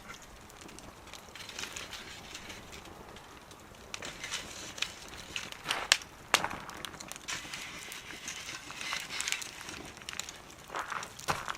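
Wood fire burning in a small wood stove, crackling with irregular sharp pops, the loudest about six seconds in and another near the end.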